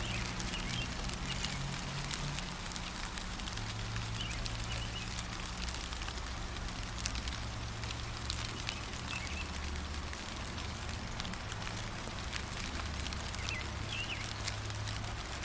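Steady gentle rain, with many separate drops ticking, and a bird giving short chirps a few times.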